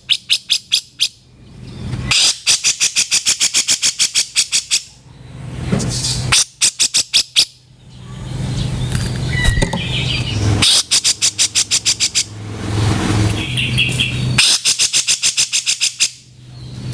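Grey-cheeked bulbul (cucak jenggot) giving its harsh, rasping chatter call: five fast rattling bursts of about eight notes a second, each one to two and a half seconds long. Between the bursts there are rougher, noisier calls over a steady low hum.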